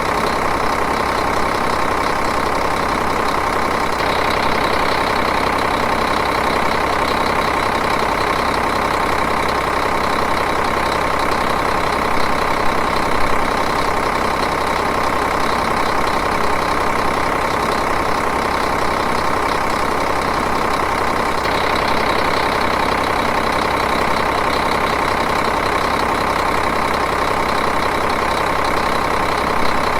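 Diesel engine idling steadily, an even, unchanging running sound.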